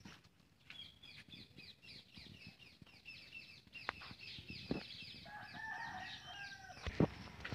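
Chickens calling: a fast run of short, high, falling chirps, joined about five seconds in by a lower, longer call. A faint steady high insect-like tone sits underneath, and a sharp knock comes near the end.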